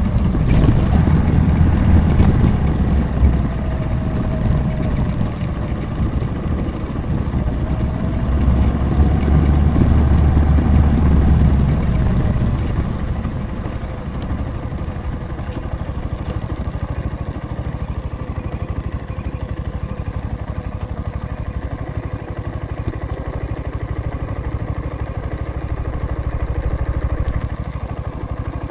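Motorcycle engine running with wind noise on the microphone, then easing off about halfway through and settling to a steady idle.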